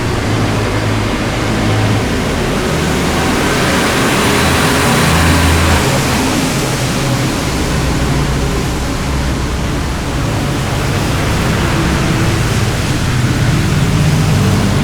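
Steady rush of wind and rain noise over the microphone of a motorcycle on the move in heavy rain, with the engine's low drone underneath, shifting in pitch now and then.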